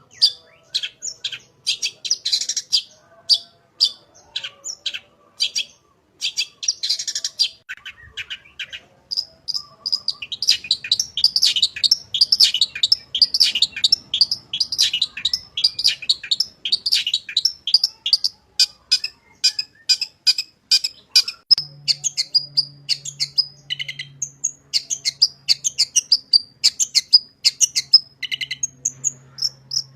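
Long-tailed shrike (cendet) singing a fast, chattering song of short, sharp high notes. Its song is stuffed with mimicked calls of other birds. Phrases come in separate bursts at first, then run into a near-continuous rapid stream from about nine seconds in.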